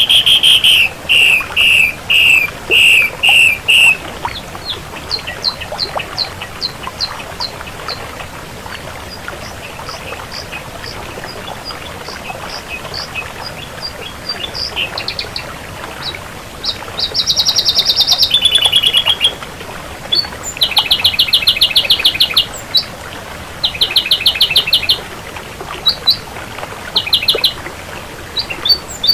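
Ashy drongo singing: a run of loud, repeated notes for the first few seconds, then a long string of short, high notes, and from about halfway on, bursts of buzzy, rattling trills.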